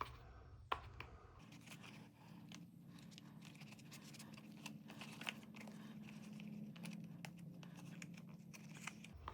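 Faint handling of a plastic-and-rubber P100 half-mask respirator and its filter cartridges: a sharp plastic click at the start and another just under a second in, then scattered light clicks and rustling. A low steady hum sits underneath from about a second and a half in until just before the end.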